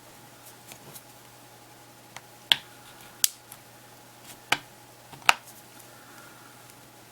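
Plastic housing clips of a Samsung Galaxy Player 5.0 snapping loose as a pry tool separates the front housing from the rear cover. There are four sharp clicks, spread through the middle of the stretch, with fainter ticks between them.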